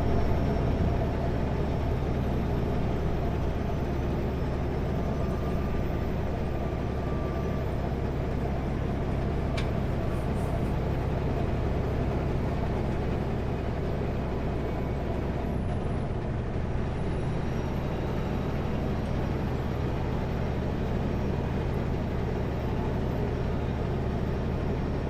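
Kenworth W900L semi truck running down the highway, heard inside the cab: a steady engine drone and road noise, whose low hum shifts slightly about two-thirds of the way through.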